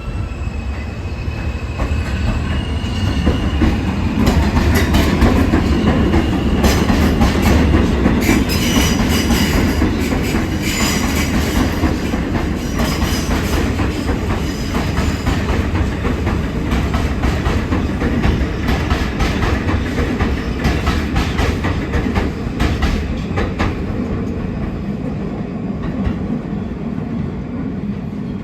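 R160 subway train running on the tracks with a heavy rumble that builds over the first few seconds and eases slowly toward the end. Rapid clicks of wheels over rail joints come through the middle, and there are a few brief high squeals.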